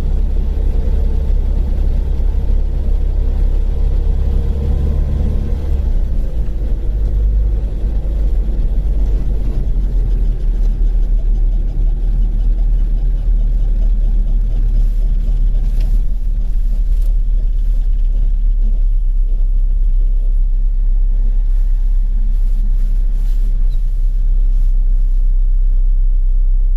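Rover Mini running, a loud steady low rumble. The lowest drone drops in pitch about six seconds in.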